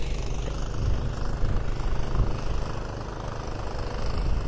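Wind buffeting a phone microphone, making an uneven low rumble that swells and dips.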